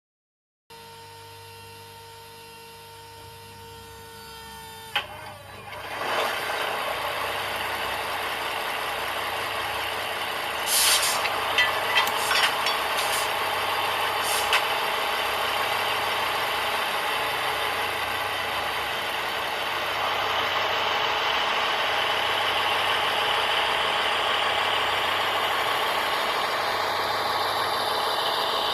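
H0-scale model locomotive sound decoder playing engine sounds: a faint steady tone, a click about five seconds in, then engine running noise that builds and carries on steadily, with several short air-release hisses a little before the middle.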